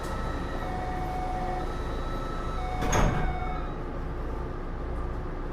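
Sliding doors of a Taipei Metro C301 subway car closing with a thud about three seconds in. Under it a warning tone alternates between two pitches about once a second, over the car's steady hum at a stop.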